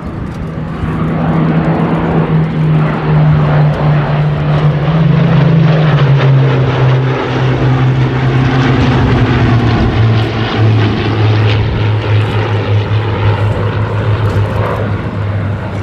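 Hawker Hurricanes' Rolls-Royce Merlin V12 piston engines running loud in a low flypast. The engine note drops sharply in pitch about six seconds in as the aircraft pass, then holds lower as they move away.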